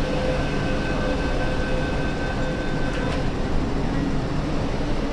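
MTR Kwun Tong line Q-train moving at a station platform: a steady rumble of wheels and running gear, with a faint steady whine that fades out about three seconds in.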